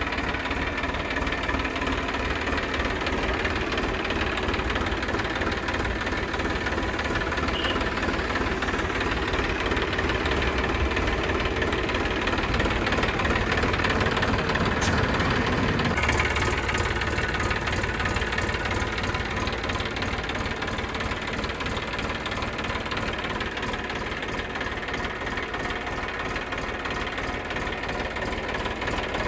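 Massey Ferguson 7250 DI tractor's three-cylinder diesel engine idling steadily, with a slight change in its sound about halfway through.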